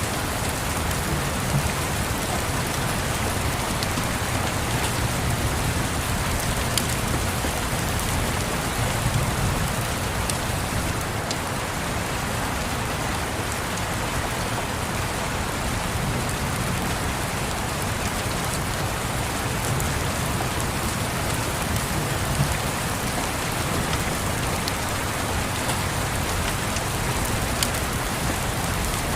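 Steady rain, an even hiss with scattered faint clicks and a low rumble underneath that swells and fades.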